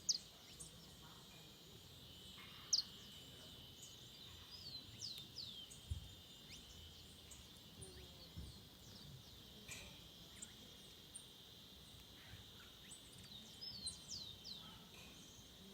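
Wild birds calling in forest: many short, high chirps and whistles that slide downward in pitch, some brief quiet clicks among them, over a steady high hum.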